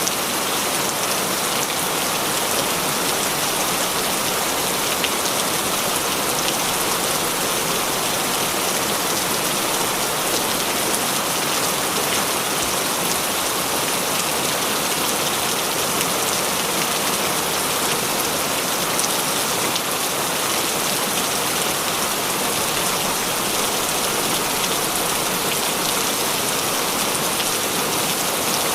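Heavy rain falling steadily, a dense even hiss of drops with fine pattering on a surface.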